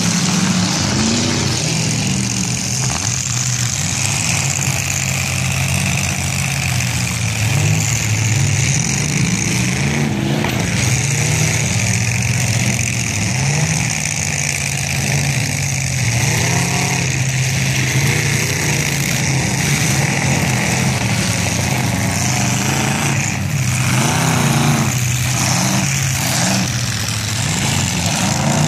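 Several demolition derby cars' engines running and revving, rising and falling over and over as the cars push through the mud. A couple of sharp bangs come through, one about a third of the way in and another late on.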